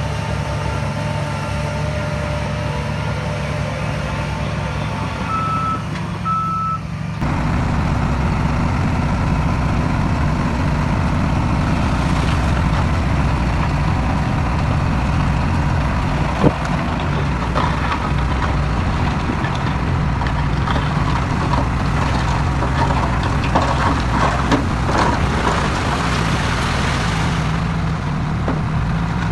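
Heavy diesel earthmoving machinery running. About five and six seconds in, two short reversing beeps sound. Then the sound changes abruptly to a louder, heavier engine with scattered clatter and knocks, like stones being pushed.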